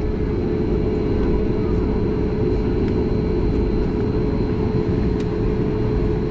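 Steady cabin noise inside a Boeing 737 MAX 8 taxiing after landing: an even low rumble of the engines and airflow, with a constant hum running through it.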